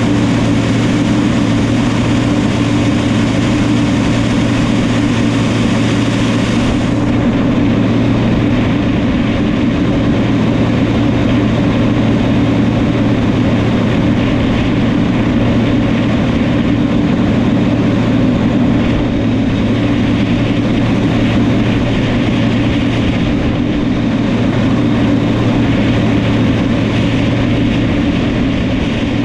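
New Holland crawler bulldozer's diesel engine running steadily at a constant, heavy low hum while it works, with a faint hiss that eases slightly about seven seconds in.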